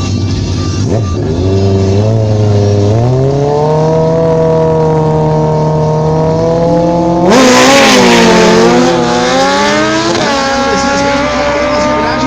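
Drag-racing sport motorcycle engines at the start line: a steady low rev steps up to high revs held for launch about three seconds in, then a sudden loud launch about seven seconds in, the engine pitch swinging up and down before settling into a steady high note.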